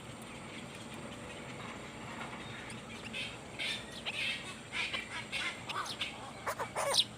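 Nestling birds calling from the nest: a run of short, sharp, high calls that starts about halfway through and grows louder toward the end.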